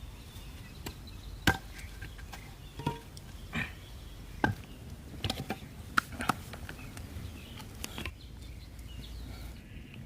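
A series of sharp knocks and clicks at irregular intervals, some of them ringing briefly.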